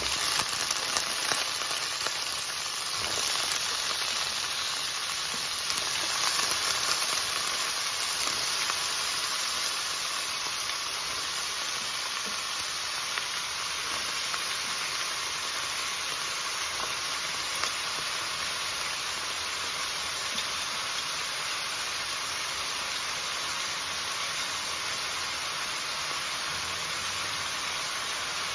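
Chopped bottle gourd sizzling as it stir-fries in oil in a metal kadai. A spatula clicks against the pan as the pieces are tossed in the first couple of seconds, then a steady sizzle.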